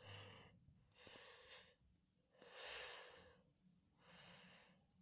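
Soft, noisy breaths close to the microphone, four of them, each about half a second to a second long and spaced about a second and a half apart, with the third one loudest.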